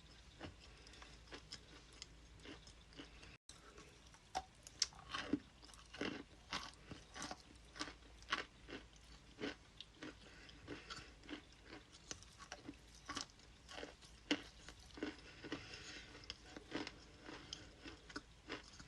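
Close-up chewing of ice: many short, sharp, irregular crunches as the pieces are bitten and broken between the teeth.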